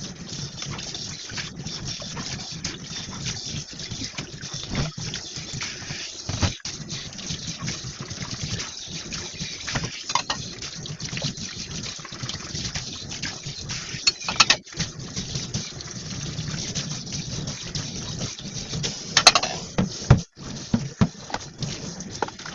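Water running from a kitchen tap into the sink as dishes are washed by hand, with a few sharp clinks, the loudest about two-thirds of the way in and near the end.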